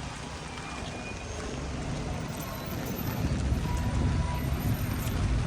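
Road traffic on a rain-soaked street: a steady hiss, with a vehicle's low engine rumble growing louder about three seconds in.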